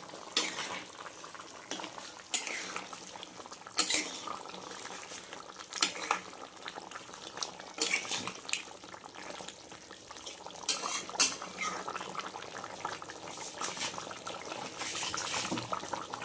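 Metal spoon scraping and clinking against a kadhai as chicken curry is stirred, in irregular strokes every second or two, over the soft bubbling of the curry simmering.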